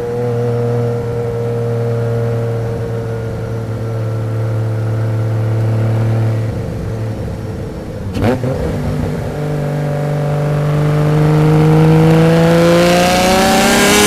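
The 1991 Nissan Skyline GT-R's single-turbo RB26 straight-six (Garrett GT3076) runs with its pitch slowly falling. There is a brief break about eight seconds in, then it pulls up steadily with rising pitch, and a hiss grows louder toward the end.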